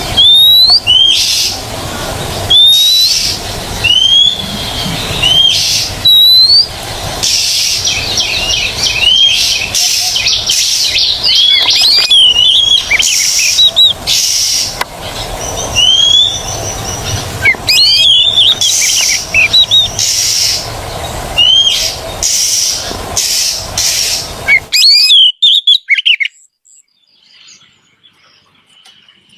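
Oriental magpie-robin (kacer) song: clear upswept whistles repeated about once a second, then a faster run of varied chirps and trills. The song stops suddenly near the end, leaving only a faint trace.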